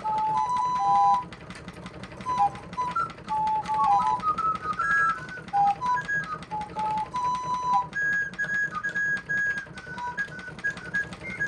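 Black Forest 26-pipe flute clock playing a tune on its high-pitched flute pipes, its music mechanism turned by a hand crank and clicking lightly under the notes. The pipes are not sounding at their best in winter, which the owner says is common.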